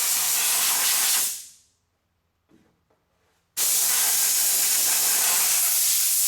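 Heat gun blowing with a steady rushing hiss. About a second in it is switched off and winds down to silence. Roughly two seconds later it snaps back on at full blast.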